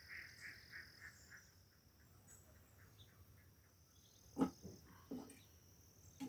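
Faint rural night-type ambience: a steady high insect trill with a frog's call of about six quick pulses, fading over the first second and a half. Two sharp knocks come about four and a half and five seconds in.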